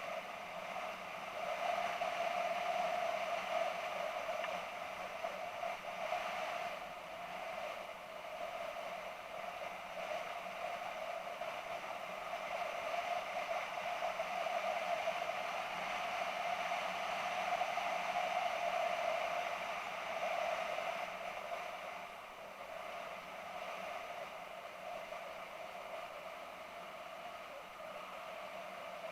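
Steady, muffled rushing of wind and engine noise from a BMW F650GS motorcycle on the move, picked up by an action camera, swelling and easing slowly as the speed changes.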